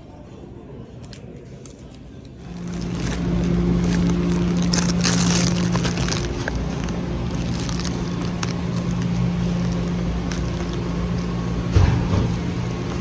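A steady vehicle hum that swells in about two seconds in and runs on evenly, with one sharp knock near the end.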